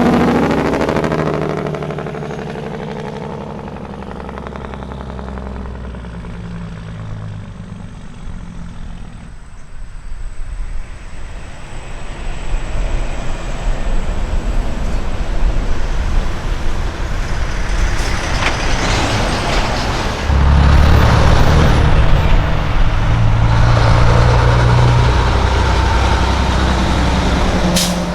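Big-rig diesel engines passing: one truck's engine sound glides and fades away over the first few seconds. After a lull, another rig approaches and runs loudly close by from about twenty seconds in.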